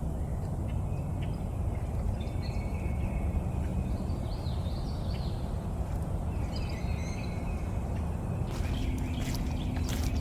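Woodpeckers calling back and forth in woodland, short scattered calls over a steady low rumble. A few sharp clicks near the end.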